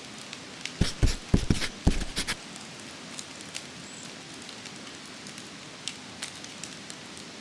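Steady rain, with scattered drops ticking on a surface. A quick run of loud knocks comes about a second in.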